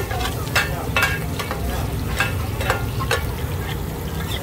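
Mussels in batter frying on a hot pan for hoi tod, sizzling steadily. A metal spatula scrapes and clacks against the pan now and then.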